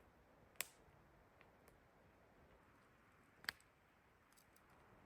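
Near silence with two faint, sharp clicks, about half a second in and again about three seconds later, and a few fainter ticks between.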